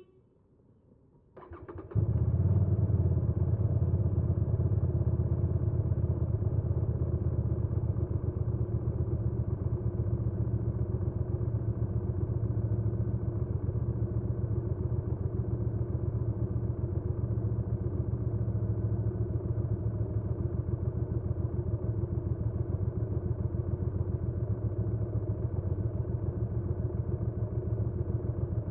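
Hyosung GV300S Aquila 300 V-twin motorcycle engine being started: a short burst of electric-starter cranking, the engine catching about two seconds in, then idling steadily.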